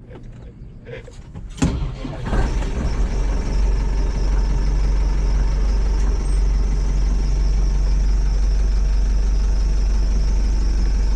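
Case 1090 tractor's engine cranking and catching about two seconds in, then idling steadily.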